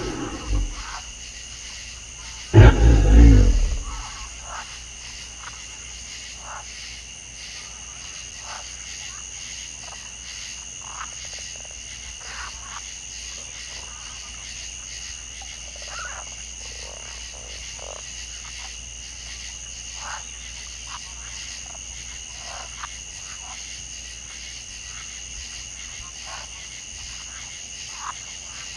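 A wild animal's loud, low roar about two and a half seconds in, followed by scattered faint short calls over two steady high-pitched tones.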